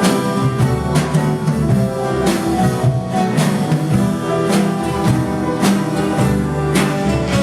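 A live vocal and instrumental ensemble playing a swing tune, with guitar and drum kit keeping a steady beat.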